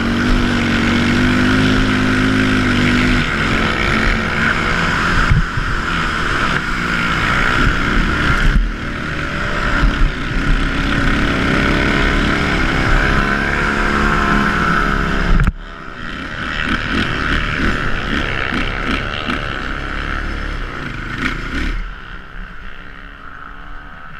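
Racing ATV engines running hard and revving, their pitch rising and falling. The sound drops off suddenly about two-thirds through, and quieter engine noise fades away after that.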